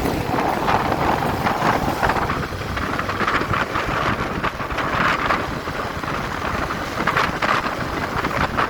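Wind buffeting the microphone of a motorcycle at road speed, with the bike's running and road noise underneath.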